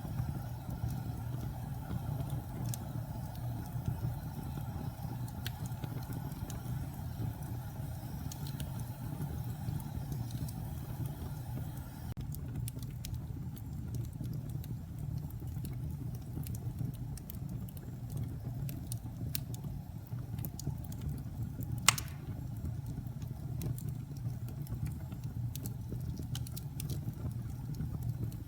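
Wood fire burning in a fireplace: a steady low rumble of flames with scattered small crackles, and one louder pop about twenty-two seconds in.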